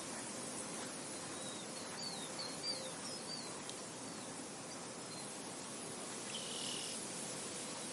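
Steady soft wind blowing across an open field, with a short run of high chirps from a small bird about two to three seconds in and one more brief note near the end.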